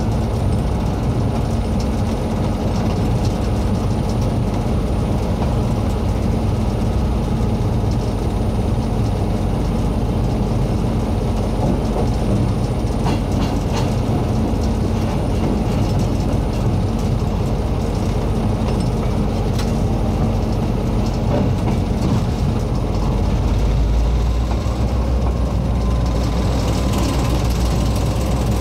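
Train running along the track behind the R123 diesel-electric locomotive: a steady low engine drone with scattered clicks and rattles from the wheels and running gear. The low drone grows stronger near the end.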